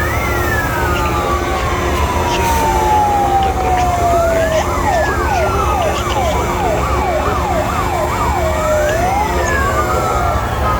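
Several fire truck sirens sounding at once, overlapping slow rising and falling wails. From about halfway through, one siren switches to a fast yelp of roughly two sweeps a second for a few seconds. A steady low rumble runs underneath.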